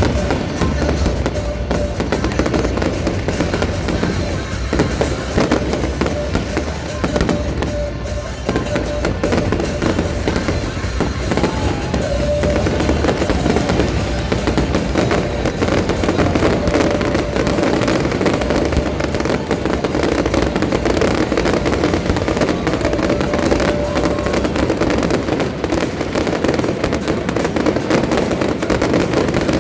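Fireworks going off in a dense, continuous run of bangs and crackles, over music playing through a public sound system.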